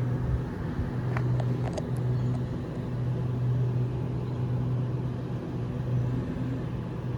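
Sydney Trains Waratah (A set) electric train standing at the platform: a steady low hum from its onboard equipment, with a few light clicks about a second or two in.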